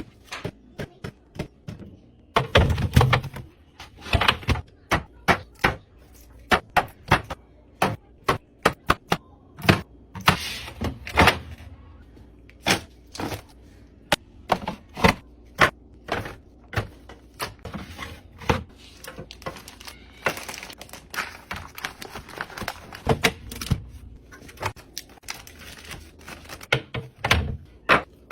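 Containers and drinks being set down and arranged on fridge shelves: a quick, irregular run of sharp clacks and knocks with short rattling scrapes between them.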